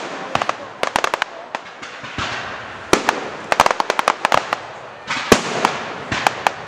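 Fireworks display: rapid, irregular crackling and popping with several sharper bangs, the loudest just before the start and about five seconds in.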